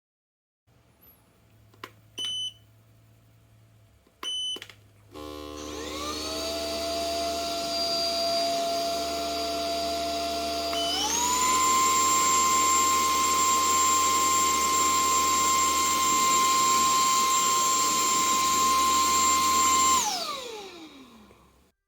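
SMDEE D2 futon vacuum cleaner: two short beeps, then the motor spins up with a rising whine, steps up to a higher speed about halfway through, runs steadily and winds down with a falling whine near the end.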